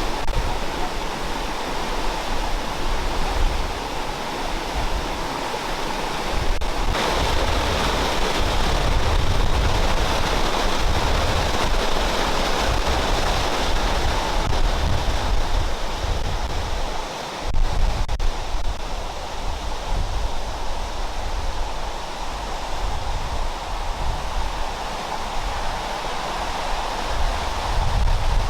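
Waterfall roaring as water falls and strikes rock, a steady rushing noise, with wind gusting on the microphone underneath.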